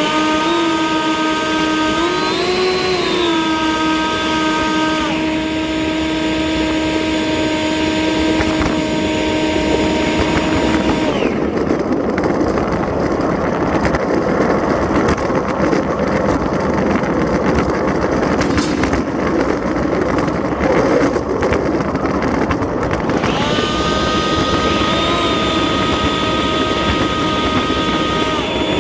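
Two leaf blowers running flat out, a steady high whine that rises briefly about two seconds in. From about eleven seconds in the whine gives way to a rushing noise for about twelve seconds, then the whine comes back.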